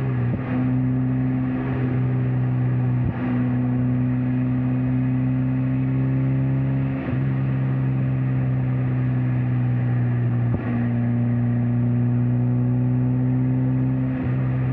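Mazda MX-5 Miata NC's 2.0-litre four-cylinder engine and exhaust droning at a steady cruising speed, with tyre and road noise underneath. A few brief thumps come through at irregular moments.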